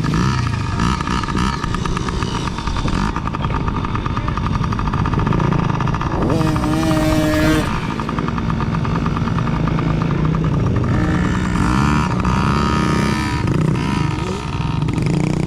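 Small dirt bike engines running and revving unevenly as the bikes move at low speed, with a sharper burst of revs about seven seconds in.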